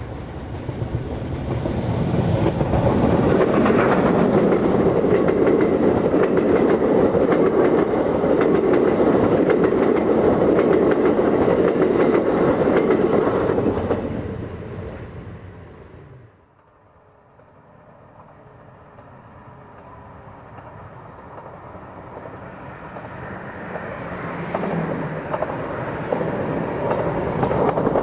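Steam-hauled passenger train passing at speed, its wheels clattering rapidly over the rail joints. The noise builds to a loud, steady rush, then falls away quickly a little past halfway. A second train then approaches, its rumble growing louder toward the end.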